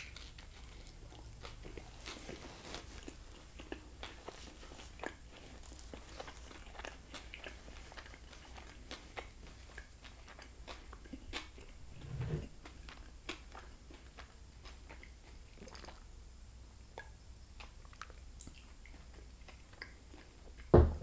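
Close-miked chewing of a soft flour-tortilla fish taco with cabbage slaw: a bite, then steady wet mouth clicks and soft crunching. A short thump comes near the end.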